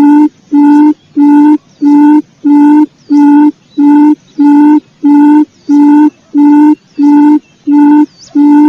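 Quail lure call: a low hooting note repeated evenly about one and a half times a second, loud and steady, cutting off suddenly at the end.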